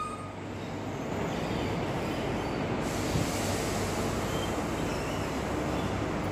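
Diesel multiple unit standing at the platform with its engine running steadily, a low even rumble and hum. Brake squeal from its wheels fades out at the very start.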